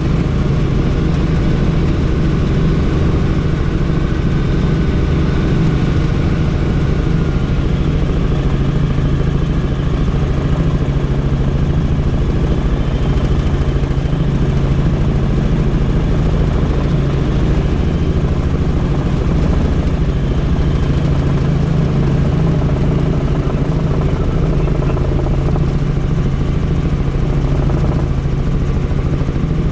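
Helicopter in flight: steady rotor and turbine engine noise, unchanging, with a strong low hum.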